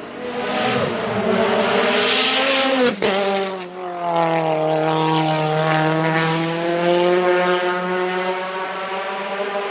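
Nissan 370Z's 3.7-litre V6 accelerating hard. The engine note climbs for about three seconds, breaks and drops as it shifts up, then pulls again, rising slowly before settling to a steady note.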